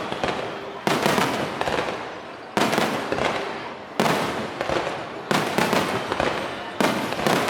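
Aerial fireworks bursting, five loud bangs about one and a half seconds apart, each trailing off in a crackling decay.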